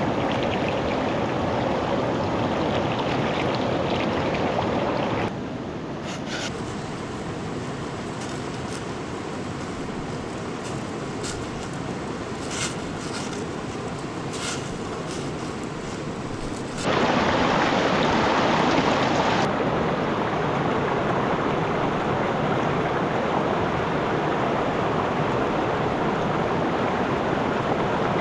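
River water rushing steadily. Its level drops abruptly about five seconds in and rises again about seventeen seconds in. Faint scattered clicks sit in the quieter middle stretch.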